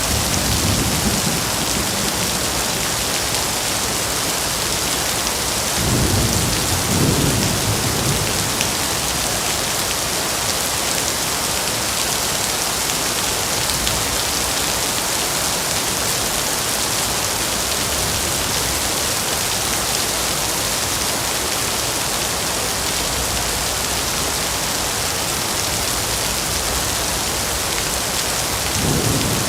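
Steady rain with rolling thunder: a low rumble swells just at the start, again about six to eight seconds in, and once more right at the end.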